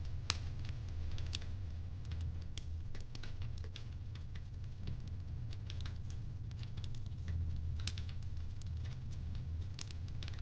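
Wood fire crackling in a fireplace: irregular sharp pops and snaps, a few a second, over a steady low hum, with the loudest pop about a third of a second in.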